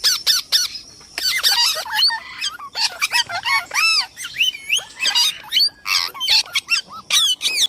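Indian ringneck parakeet calling: a rapid run of shrill squawks and chirps, many short calls that swoop up and down in pitch, with brief gaps about a second in and near the end.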